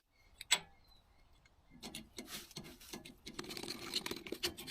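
Boat trailer wheel being handled: a sharp click about half a second in, then a run of light irregular knocks and rubbing.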